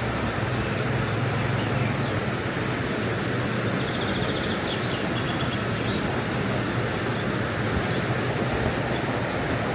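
Steady rush of falling or fast-flowing water from a waterfall or the glacial river, with a few faint high chirps about halfway through.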